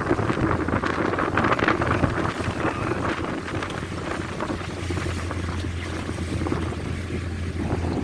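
Gusty wind buffeting the microphone in an uneven rushing noise, with a steady low hum underneath that grows stronger about five seconds in.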